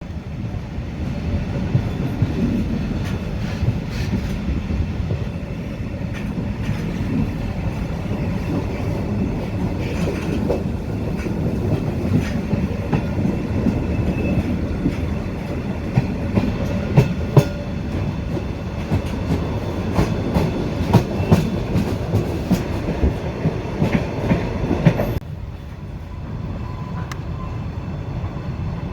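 Train running on rails: a steady low rumble with scattered clicks and clacks from the wheels. About 25 s in, the sound suddenly drops to a quieter, duller rumble.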